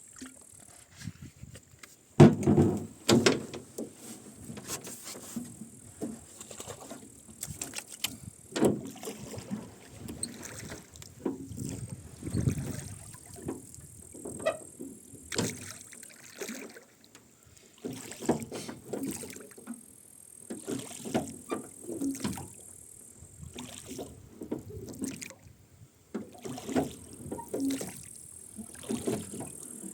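Rowboat being rowed: the oars creak in their oarlocks and splash into the water with each stroke, every few seconds.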